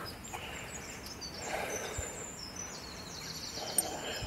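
Quiet outdoor dawn ambience, with a small bird's faint high-pitched song in the second half.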